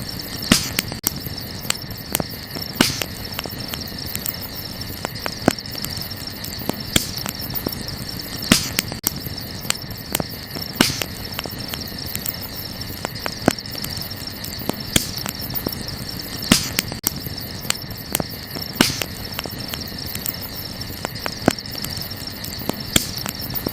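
Wood campfire crackling, with irregular sharp pops every second or two over a low hiss of burning. Behind it a steady, high chorus of crickets.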